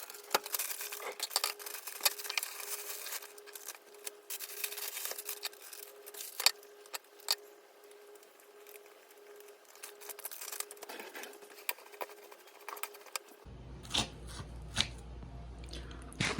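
Light, irregular clicks, taps and rustles of kitchen food preparation, over a faint steady hum. Near the end a low steady rumble comes in.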